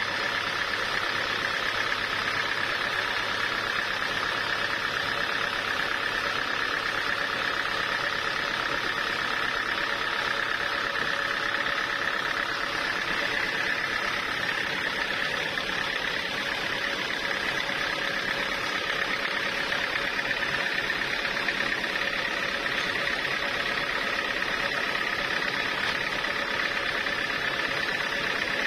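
Sawmill machinery running steadily, with a high whine that fades out about halfway through.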